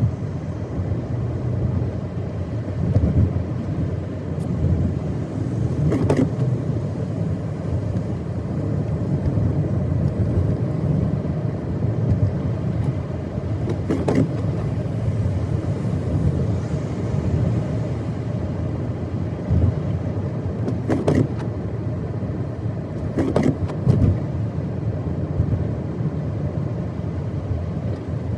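Car driving on a snowy road: steady engine and tyre rumble, with a few brief knocks scattered through it.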